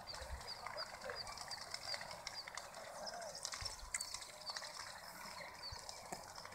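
A bird calling, a short high chirp repeated about three times a second over the first half, with faint distant voices underneath.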